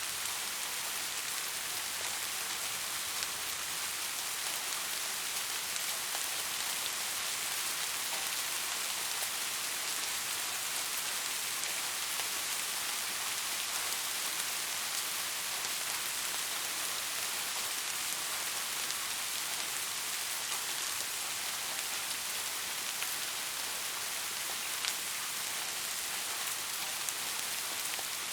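Steady rain falling, an even hiss with now and then a single drop ticking out.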